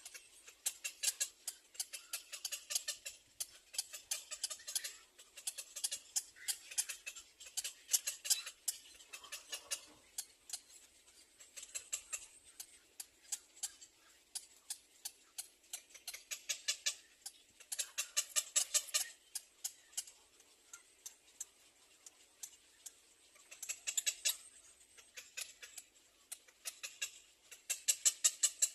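Small bird chicks in a nest cheeping: rapid, high-pitched chirps in repeated bouts of a second or two, with short pauses between.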